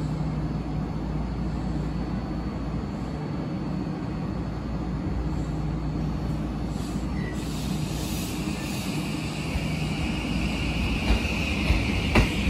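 Shin-Keisei electric train idling at the platform with a steady low hum, then starting to pull away about halfway through, a higher-pitched whine joining in. Sharp clacks of the wheels over the rail joints come in near the end as it gathers speed.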